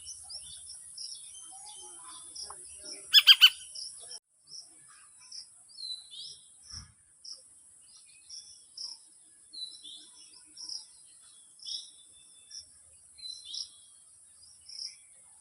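Fledgling Indian golden oriole calling: short high chirps about twice a second, with now and then a downward-sliding call, and one louder, harsh call about three seconds in. A steady high insect buzz runs behind.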